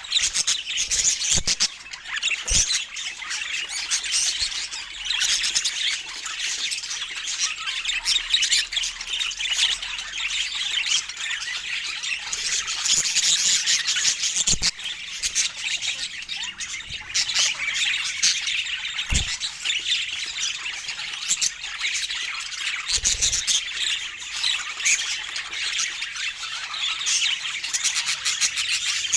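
Budgerigars chattering and squawking, a dense, continuous warbling chatter, with a few short knocks now and then.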